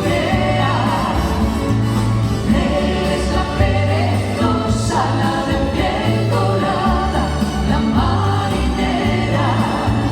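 A vocal group singing in harmony over a band accompaniment with a steady bass line, recorded live.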